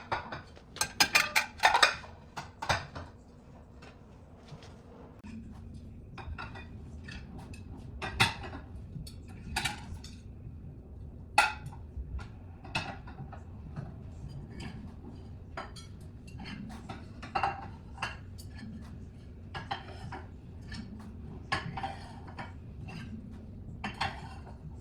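Dishes and cutlery clinking and clattering as a dishwasher is unloaded: a quick run of clatters in the first few seconds, then single clinks every second or so over a faint low hum.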